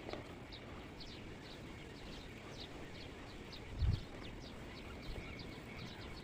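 A small bird chirping over and over, short high falling notes a few times a second, over low wind rumble. A single dull thump about four seconds in.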